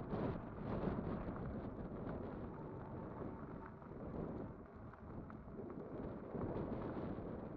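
Wind buffeting the microphone and tyre-on-road rumble from a moving Kugoo Kirin V5 electric bike, rising and falling in level, with a few faint ticks.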